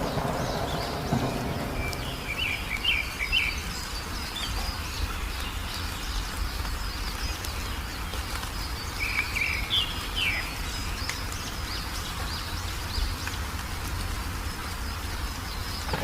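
Wild songbirds chirping in two short runs of quick notes, about two seconds in and again about nine seconds in, over a steady high trill and a low, constant background rumble.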